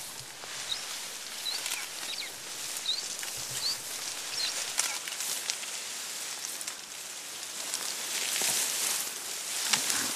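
A bird repeating a short, rising chirp every half second or so through the first half, over a steady high hiss of forest ambience. Occasional snaps and rustles of leaves and stems come from mountain gorillas feeding in the undergrowth.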